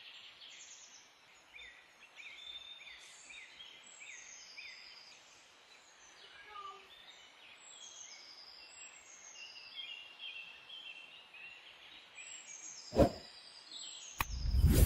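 Small birds chirping and singing continuously in the background, with a sharp knock about two seconds before the end and a louder cluster of knocks at the very end.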